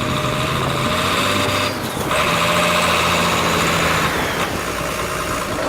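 Diesel engine of a Mercedes-Benz Actros 2041-K tractor unit running, its tone shifting briefly about two seconds in and again about four seconds in.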